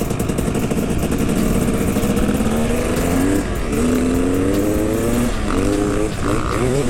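Dirt bike engine accelerating through the gears: its pitch climbs for about three seconds, drops back at a shift, climbs again, then shifts a few more times in quick succession near the end.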